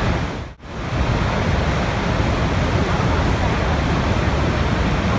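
Steady rushing water, an even wash of noise. It drops out almost completely for a moment about half a second in, then carries on unchanged.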